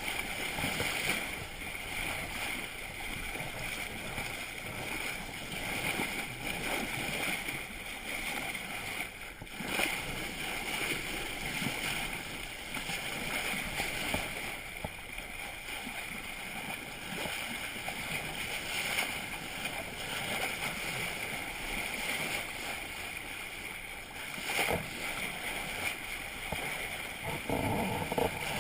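Water rushing and sloshing along a sailboat's hull as it moves, a steady noisy wash with a few brief louder surges.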